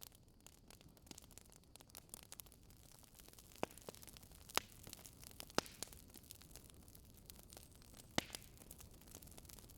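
Swedish fire log burning with a faint steady hiss and scattered small crackles, broken by four sharper pops of the burning wood.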